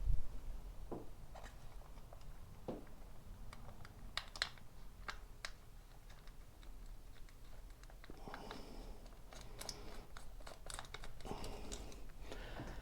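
Scattered light clicks and rustling of small parts being handled, with a cluster of sharp ticks about four to five seconds in and again near ten seconds.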